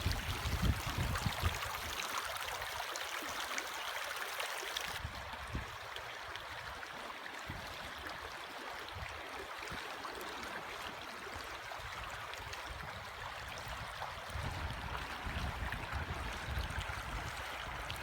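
River water rushing steadily, a broad even hiss, with low rumbling on the microphone near the start and again near the end.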